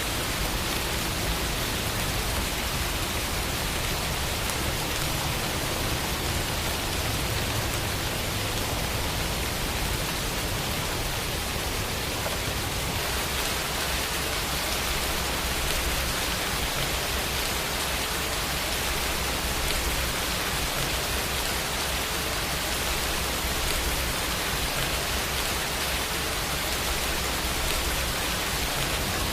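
Steady rain falling, an even unbroken hiss of many drops with a low rumble underneath.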